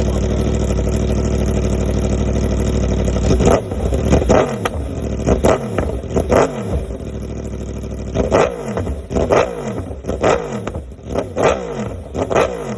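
Yamaha R1M's crossplane inline-four breathing through a full aftermarket exhaust, idling steadily for about three and a half seconds, then revved in a quick series of sharp throttle blips, the revs falling back after each one, in two bursts with a short pause between.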